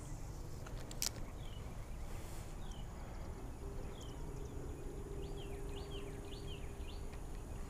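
Small birds chirping in short falling notes, a few at first and then in quick runs in the second half, over a steady low outdoor rumble. A single sharp click sounds about a second in.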